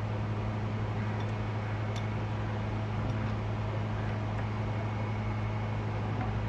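A steady low machine hum with an even hiss, holding constant without rising or falling.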